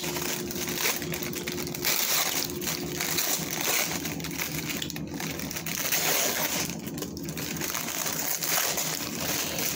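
Paper food wrapper crinkling and rustling as a Taco Bell steak quesadilla is unwrapped and opened, with many small crackles throughout.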